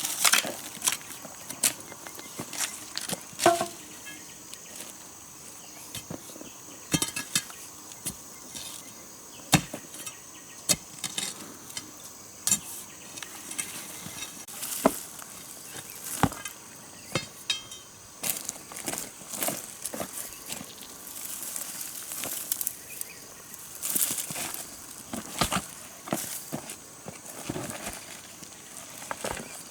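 Irregular sharp knocks and clinks of stones being handled and set against each other, over a steady high insect drone.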